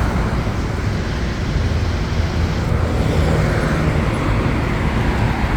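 Street traffic going by, a steady rumble of engines and tyres.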